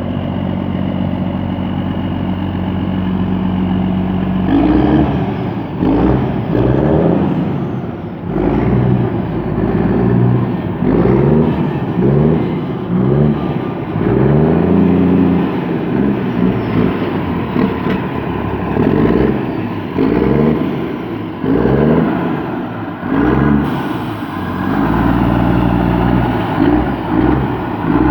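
DAF diesel engine in a Kirovets K-700 tractor idling steadily, then revved up and down in repeated short throttle blips from about four seconds in, with a brief spell of steady running near the end.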